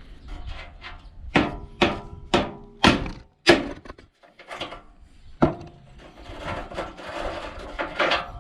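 Hammer blows on metal: a quick run of five ringing strikes about half a second apart, then a few more spaced-out blows.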